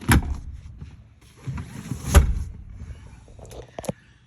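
Two heavy thumps about two seconds apart, then a few lighter clicks near the end: the truck's rear seat, with its new custom cover, being handled and pushed into place.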